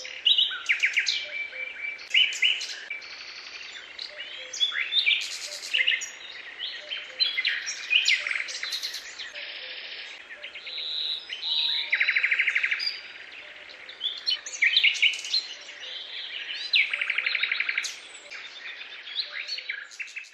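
Songbirds singing together: a dense chorus of overlapping chirps, whistled glides and rapid trills, with a longer buzzy trill about 12 seconds in and again about 17 seconds in.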